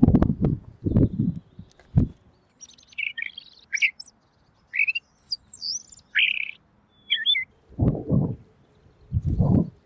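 Pekin robin (red-billed leiothrix) calling: a few seconds of quick, clear chirps and whistled notes, some sliding down in pitch. Several loud low muffled bumps come in the first two seconds and again near the end, louder than the bird.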